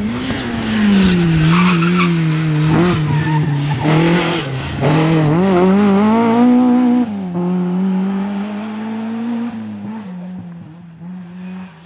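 A rally car driven hard past, its engine revving up and down with the throttle. About seven seconds in the note drops suddenly, then holds steadier and fades away as the car drives off.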